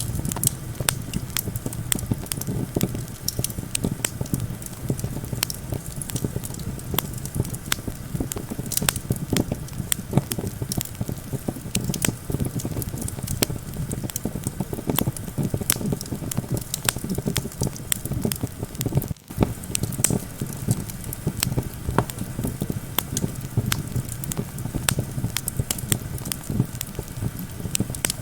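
Campfire crackling, with frequent sharp irregular pops, over a steady low rumble of wind.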